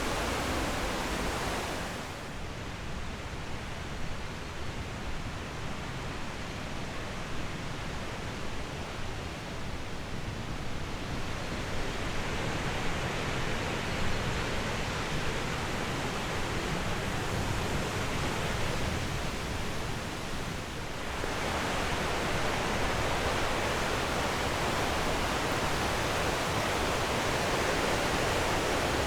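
Steady rush of flowing water, with no other sound over it. Its tone changes abruptly twice, about two seconds in and again about two-thirds of the way through.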